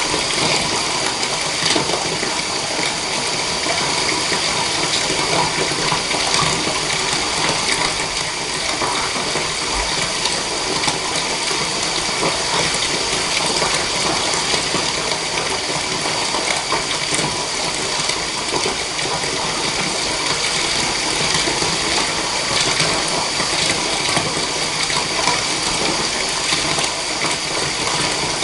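Water running steadily from a tap into a bathtub, an even gushing with no break.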